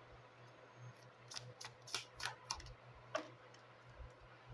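Faint clicks and light taps of Lenormand cards being handled, drawn and laid down one after another, about eight in irregular succession over a low steady hum.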